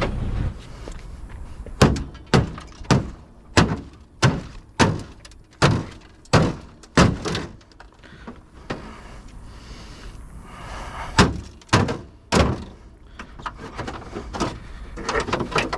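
Repeated sharp knocks and thunks as a CRT television's deflection yoke is worked loose from the tube: about nine knocks, roughly one every two-thirds of a second, then three more a few seconds later.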